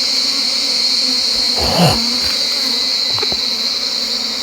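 Wild honeybees buzzing steadily around their opened tree-hollow nest after being smoked out, with one bee passing close by, its buzz gliding in pitch, a little under two seconds in. A steady high-pitched insect shrill runs underneath.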